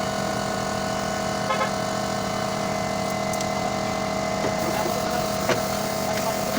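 A steady mechanical drone with an unchanging pitch, as from a running motor or engine, with a couple of faint clicks.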